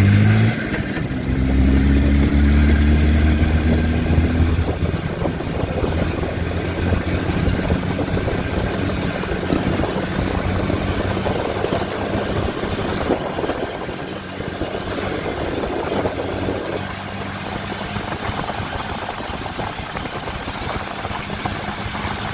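IZh Jupiter-4's two-stroke twin-cylinder engine running again after ten years standing, revived and running evenly. It is revved in the first few seconds, then settles to a steady idle.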